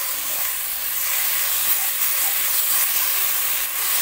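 Onion-tomato masala paste sizzling with a steady hiss in hot oil in a non-stick pan, stirred with a wooden spatula.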